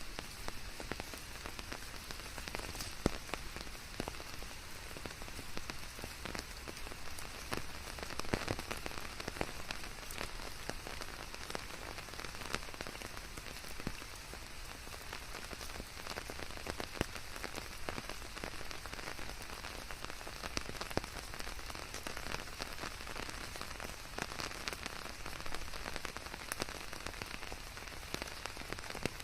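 Steady rain falling, with many close individual drops striking a surface among the general hiss.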